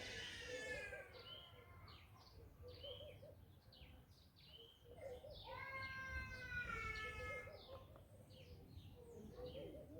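A young child crying in two long, falling wails about five seconds apart, faint, while small birds chirp over and over.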